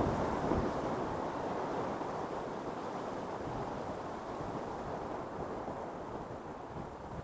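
Ocean surf: a wave's rushing wash, loudest at the start and slowly fading away.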